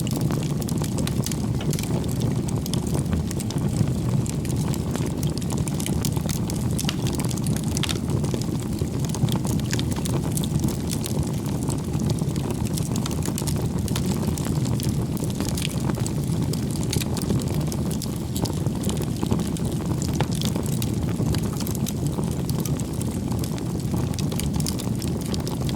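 Wood campfire burning: a steady low rumble of flames with frequent sharp crackles and pops from the burning firewood.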